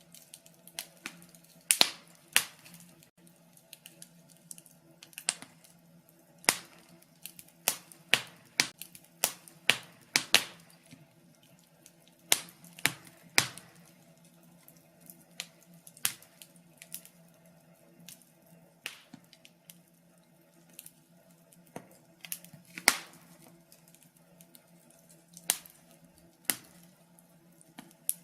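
Wood fire burning in a fireplace, the logs crackling and popping at irregular intervals, some pops much louder than others, over a faint steady low hum.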